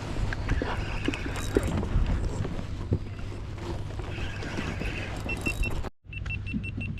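Scattered knocks and clicks of gear being handled, over a steady low hum. A row of short, evenly spaced high beeps comes near the end, after a brief dropout.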